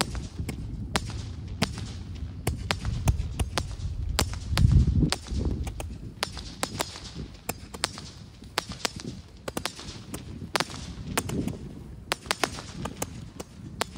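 Store-bought fireworks going off: a running scatter of sharp pops and cracks, with a louder deep boom about five seconds in.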